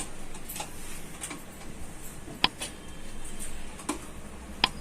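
A handful of short, sharp clicks and light knocks at irregular intervals, the two strongest about two and a half seconds in and near the end: hard parts of a rice cooker being handled.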